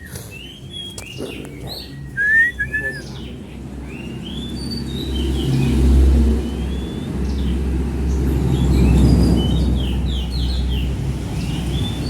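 Young caged songbirds giving short repeated chirps, one louder rising chirp about two seconds in. A low rumble swells under them through the middle.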